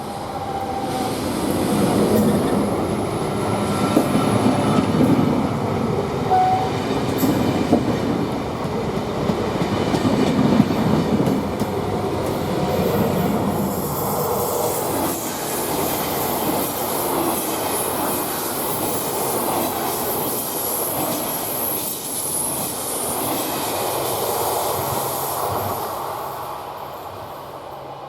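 A train passing, wheels running over the rails with a high squeal of wheels on rail through the second half. The sound fades away near the end as the train goes by.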